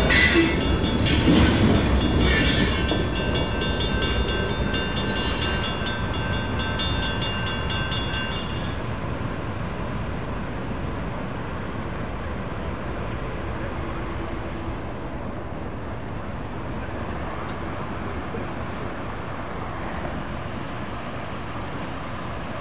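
Freight cars rolling past over a grade crossing, with the crossing bells, one of them a Safetran Hybrid bell, ringing steadily until they cut off about nine seconds in. The train's rumble then fades slowly as it moves away.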